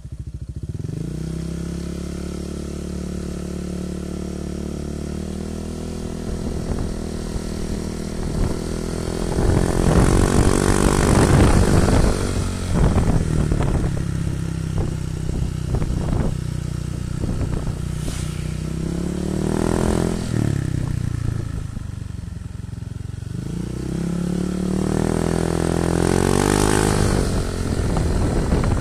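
Honda Vario 160 scooter's single-cylinder engine through an aftermarket ZRC-replica racing exhaust with a 0.5 mm filter screen, idling steadily, then revved up about ten seconds in, followed by a few quick throttle blips and two more revs later on.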